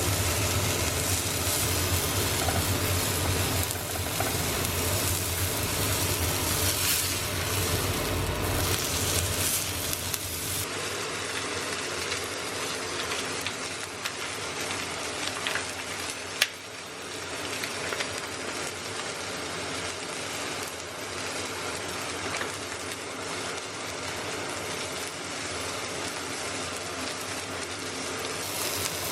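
Food sizzling and frying in a pan, a steady hiss with a single sharp click about sixteen seconds in.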